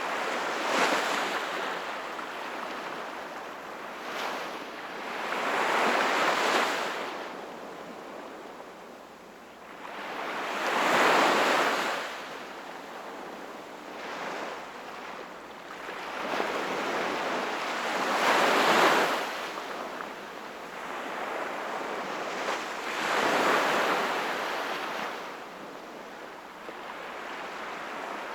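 Sea waves breaking and washing in, a hiss that swells and fades, with a louder surge every four to seven seconds and smaller ones between.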